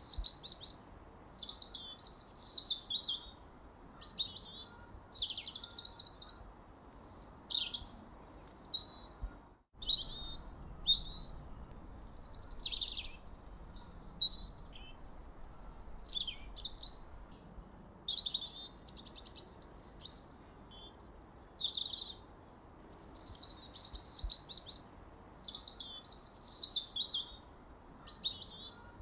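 Songbirds chirping and singing in short, high, quick phrases, many sliding downward, one after another every second or two, over a faint steady hiss. The sound cuts out for a split second about ten seconds in.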